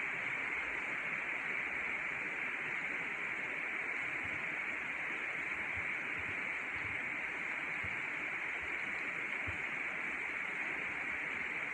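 Steady hiss of rain falling outside an open window, even throughout, with a few faint soft knocks in the middle.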